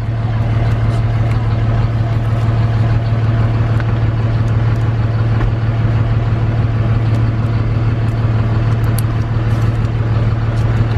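Truck engine idling steadily, a loud, even low hum.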